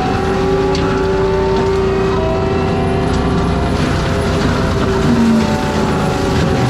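ASV RT-120F compact track loader with a forestry mulcher head running hard, a steady loud machine drone with a high whine on top, its pitch wavering slightly.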